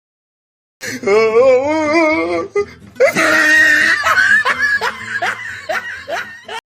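A person laughing loudly in two runs of quick ha-ha pulses, with a short break about two and a half seconds in; it starts out of dead silence and cuts off abruptly near the end.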